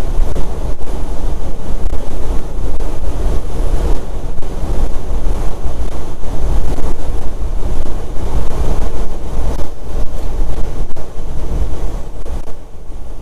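Heavy wind noise buffeting the microphone over the rumble of a semi truck driving at highway speed, easing off a little near the end.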